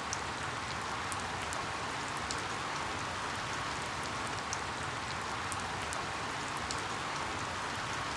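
Steady rain falling, an even hiss at a constant level with scattered sharp ticks of individual drops.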